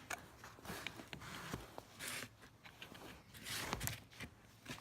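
Irregular scrapes and clicks of tools and metal parts being handled while a semi-hermetic compressor is taken apart, louder around two seconds in and again about three and a half seconds in.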